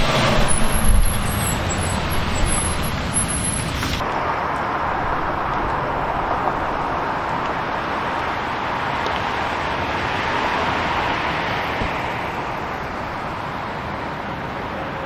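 City street traffic: vehicles passing, louder and closer for the first few seconds, then an abrupt cut about four seconds in to steadier traffic noise that swells and fades as another vehicle goes by.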